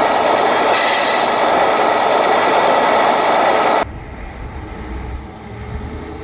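Loud, steady rushing of street traffic and wind. It cuts off abruptly about four seconds in, leaving a quieter low rumble.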